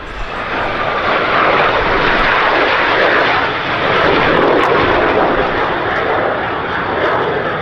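A pair of BAC Strikemaster jets, each powered by a Rolls-Royce Viper turbojet, running in low towards the crowd. Their jet roar builds over the first second or so, stays loud through the middle, and eases slightly near the end.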